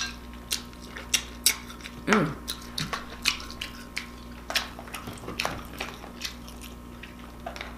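Close-miked eating sounds: wet chewing and lip smacking, with many short sharp clicks, and a brief "mm" about two seconds in.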